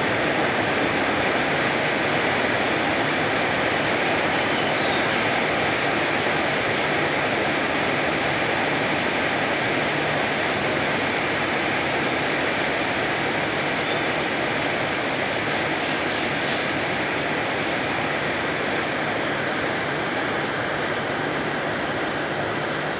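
Heavy rain pouring down in a steady, even roar.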